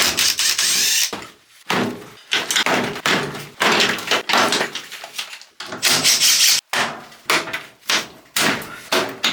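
Knocks, thuds and scraping of interior trim panels being pried loose and pulled off a Nissan Caravan van's body. They come as a string of short bursts, each starting abruptly about every second.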